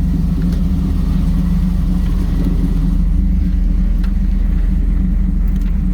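1998 Camaro Z28's LS1 V8 idling steadily.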